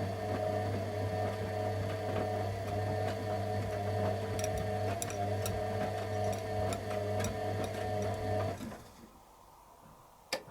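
Candy Aquamatic 100F washing machine running mid-cycle with a steady hum and a wavering whine, some light ticking over it. It cuts out suddenly about eight and a half seconds in, and two sharp clicks follow near the end.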